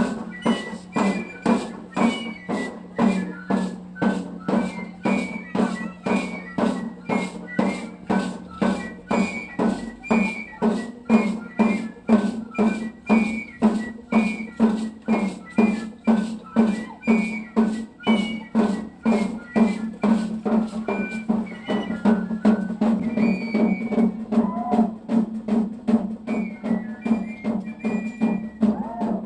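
Danza sonajera music: a high flute melody over a steady beat of drum and shaken sonaja rattles, about two strokes a second, with a steady low drone underneath.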